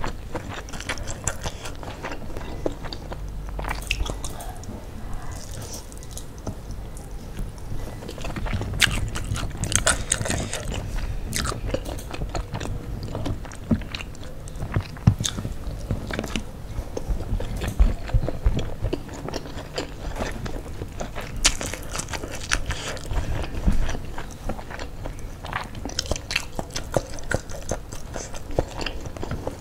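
Close-miked chewing of sauce-coated fried chicken and rice: moist mouth sounds with many irregular sharp clicks and smacks.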